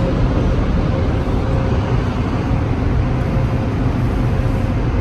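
Automatic car wash's high-powered air-dryer blowers blasting air over the car, heard from inside the cabin as a loud, steady rush with a faint hum.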